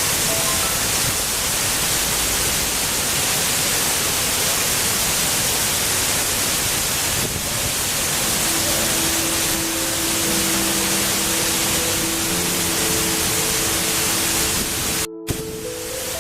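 Steady rushing of a waterfall, with soft held music notes joining about halfway through. The sound cuts out for a moment near the end.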